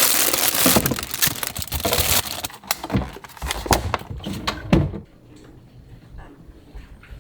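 Handling noises: a loud crinkling rustle for about two seconds, then a series of light knocks and crackles that die away about five seconds in.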